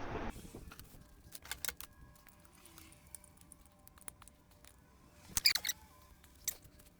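A few light metallic clicks and clinks of a small brass fitting and hand tool being handled while it is put into an engine's thermostat housing, the loudest cluster about five and a half seconds in.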